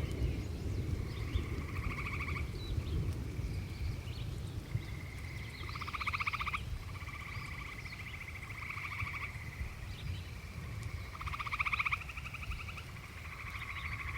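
Frogs calling in repeated rapid trills, each lasting half a second to a second and several overlapping, over a constant low rumbling background.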